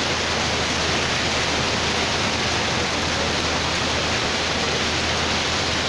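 Heavy rain mixed with small hail pouring down and hitting the ground as a steady, even rush.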